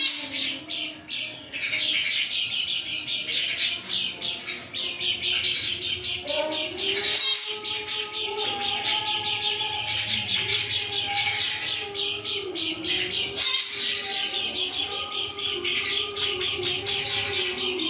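Kecial kuning songbird singing a fast, continuous run of high chirps and twittering, with brief pauses about seven and a half and thirteen and a half seconds in. Lower, wavering held tones sound underneath.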